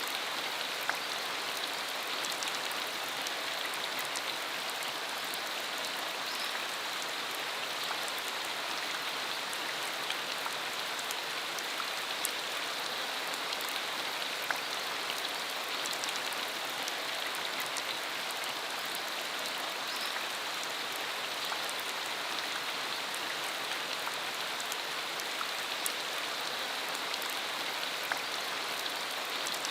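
Steady rain shower falling on the ground, an even hiss with scattered sharp ticks of individual drops.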